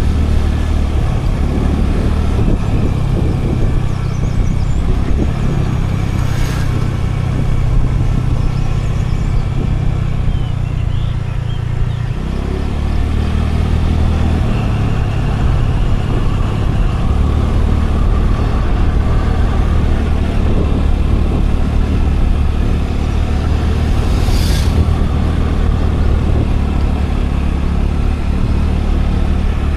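Scooter engine running steadily with road noise, heard from the rider's own scooter. The engine note drops off briefly about twelve seconds in, then picks up again, and two short sharp sounds come through, one a quarter of the way in and one near the end.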